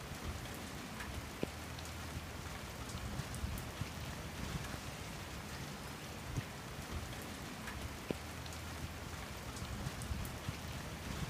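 Steady rain falling, with the sharp ticks of single nearby drops scattered through it.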